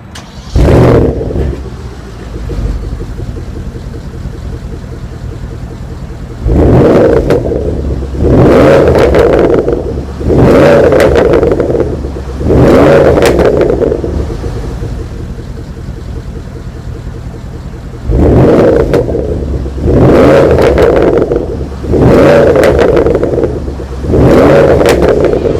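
Porsche Panamera Turbo's 4.8-litre twin-turbo V8 starting with a loud flare that settles to idle. It is then revved eight times in two groups of four, each rev lasting about two seconds, with idling between the groups.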